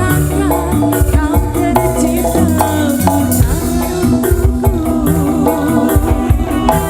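Loud live band music in an instrumental passage without singing: a bending melodic lead over a steady bass line and regular percussion.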